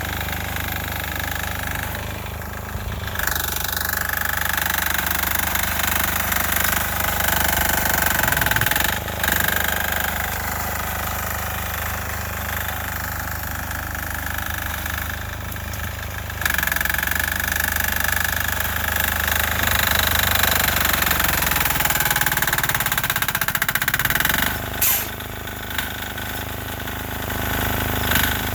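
Sears Suburban garden tractor's 6 hp single-cylinder air-cooled diesel engine running hard while pushing snow, its knocking note rising and falling with load. It gets louder for several seconds past the middle, then drops back.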